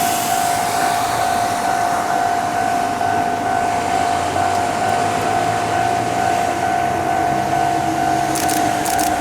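Ohmi Railway electric train with a steady high whine over running noise; a lower hum joins near the end, with a few sharp clicks.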